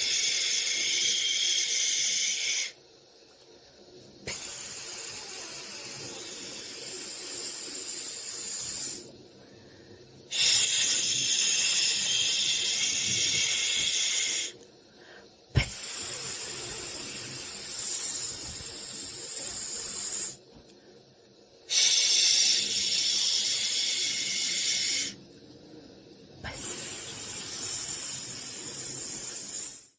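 Hissing white noise meant to soothe a baby to sleep. It comes in six long bursts of about three to five seconds each, with short quiet pauses of about a second and a half between them, like a drawn-out 'shhh'.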